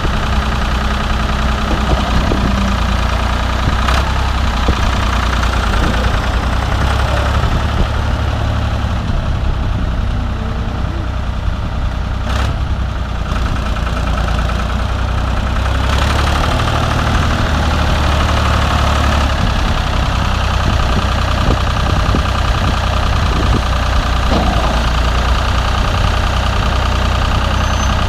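Ford 4500 backhoe loader's engine running steadily, with its low note shifting a little now and then.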